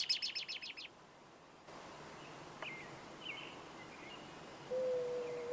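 A small bird chirping: a quick run of about ten high chirps in the first second, then fainter, scattered chirps. Near the end a steady whistle-like tone comes in as music begins.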